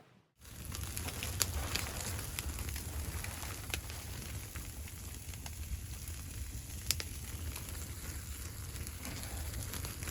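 Wood fire crackling, with a steady low rumble of the burn and scattered sharp pops of the wood.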